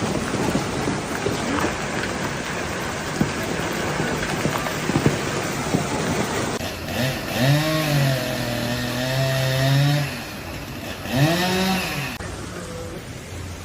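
Hailstones and heavy rain pelting down, a dense hiss full of sharp clattering impacts. After a sudden change, a drawn-out wavering pitched sound is heard twice.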